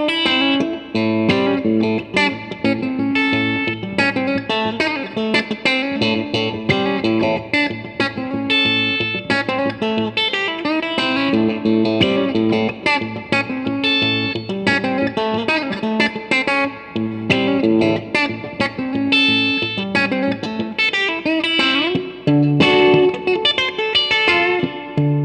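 Fender Telecaster electric guitar played through a Vox AC30S1 valve combo amplifier: a continuous run of picked notes and short phrases, with a low bass note ringing under much of it.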